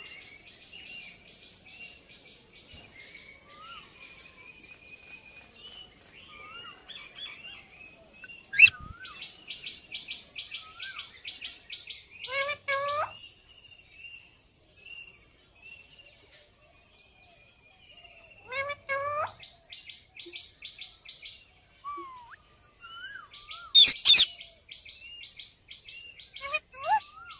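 Indian ringneck parrot calling: runs of rapid chattering chirps broken by short rising squawks, with two loud shrill screeches, one about eight seconds in and one near the end. A faint steady high tone runs underneath.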